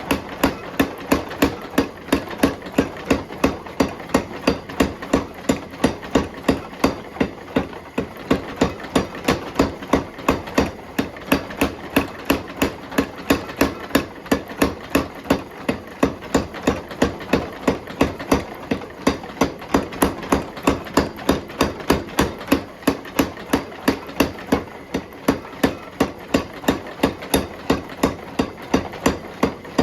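Hammer blows on hot steel being forged, a steady, unbroken rhythm of about three strikes a second over a continuous hum.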